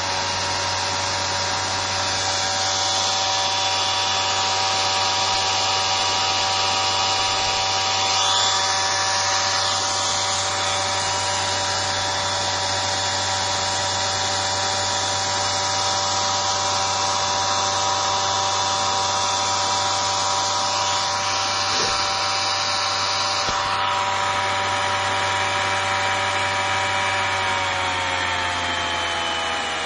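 Bosch 120 A car alternator converted into a brushless motor and driven by an RC speed controller, running at high speed with a steady electric whine over the rush of its cooling fan. Near the end it begins to slow down and the whine falls in pitch.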